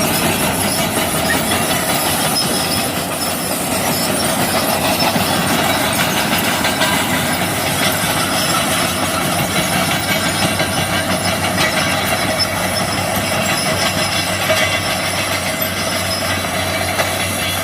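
Heavy earthmoving machinery at work: an excavator's diesel engine and hydraulics running steadily while it loads a dump truck, with a steady whine over the engine noise.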